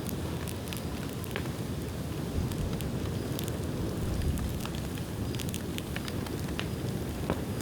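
Bonfire of dry bamboo burning: scattered sharp crackles and pops over a steady low rumble.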